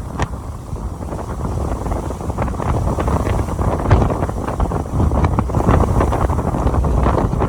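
Strong Santa Ana wind gusting and buffeting the microphone with a heavy low rumble that swells and eases. Scattered small ticks and rattles run through it.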